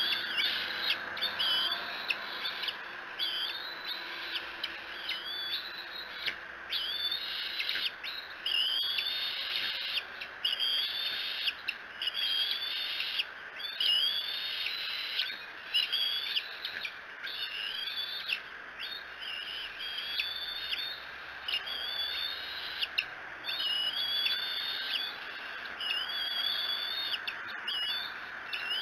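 A bird calling over and over, a short high-pitched call about once a second, over a steady hiss.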